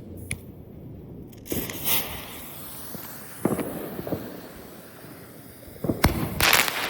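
Consumer fireworks going off: scattered single bangs a second or two apart, then a quicker run of bangs near the end.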